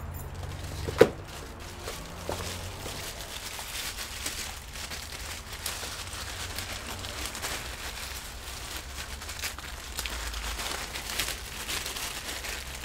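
Crinkling and rustling from handling double-sided adhesive tape and its plastic backing. There is a sharp click about a second in, then irregular faint ticks and rustles.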